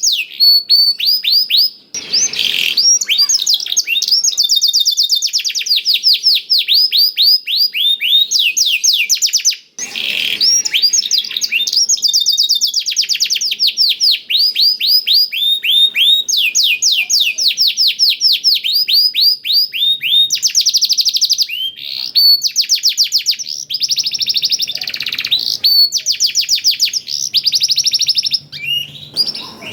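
Domestic canary singing a long song of fast trills, runs of rapidly repeated falling notes with phrases learned from the black-throated canary. It pauses briefly about two seconds and ten seconds in.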